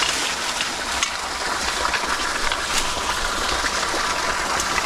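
Small stream water rushing steadily over the streambed, with a few faint ticks of splashing.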